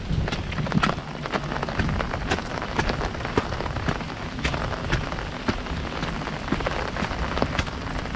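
Heavy rain falling on an umbrella overhead: many separate drops striking the canopy over a steady hiss of rain.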